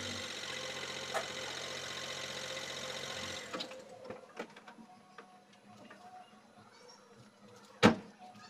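Car engine idling steadily, then switched off about three and a half seconds in. A few faint clicks follow, then a single loud thump near the end as a car door is shut.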